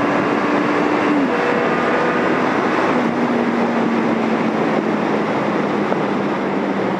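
Yamaha XJ750 Seca's air-cooled inline-four engine pulling on the freeway under heavy wind rush. Its note changes about a second in and again near three seconds, then slowly falls.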